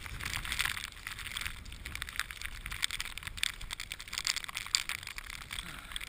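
Irregular crunching of footsteps through deep snow, with wind rumbling on the microphone.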